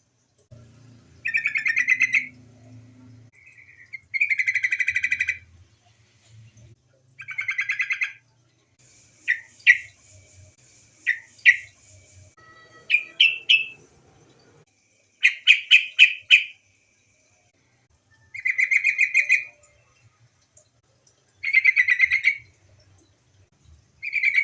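Female yellow-vented bulbul (trucukan) calling: harsh, rapid chattering bouts about a second long, repeated every two to three seconds, with a few short sharp notes and a quick run of notes in between. These are calls of a female calling to males, used as a lure to get male bulbuls singing.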